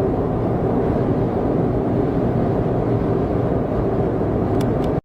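Steady road and engine noise of a car cruising at expressway speed, heard from inside the cabin, a dense low rumble with no change.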